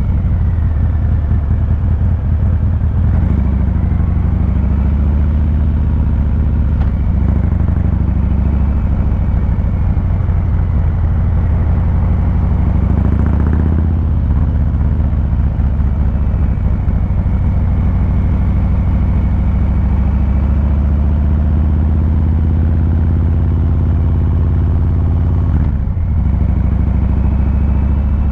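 Exhaust of a 2023 Harley-Davidson Fat Boy 114's Milwaukee-Eight 114 V-twin, heard from the rider's seat, running steadily at low cruising revs with a brief change in engine note about halfway through.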